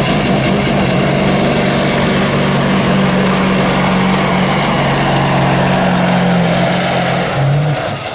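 Heavy engine of a competition pulling vehicle running flat out at high, steady revs under load, its pitch lifting briefly about seven seconds in before it cuts back sharply near the end.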